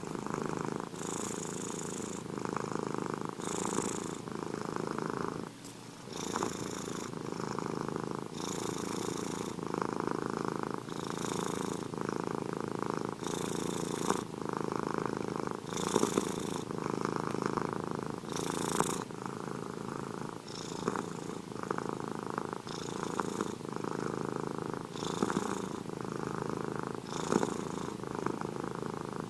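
Domestic cat purring steadily, the purr swelling and easing in a regular cycle every two to three seconds as it breathes in and out, with a brief break about five seconds in.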